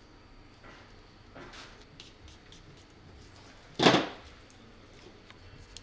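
Handling noise from small parts on a workbench: faint rustles, then one short, loud rub or knock about four seconds in.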